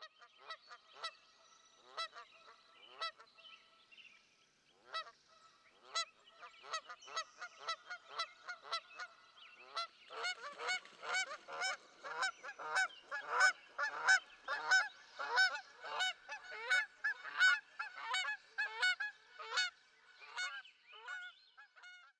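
A flock of geese honking: many short, repeated calls, sparse at first, then denser and louder with calls overlapping from about ten seconds in.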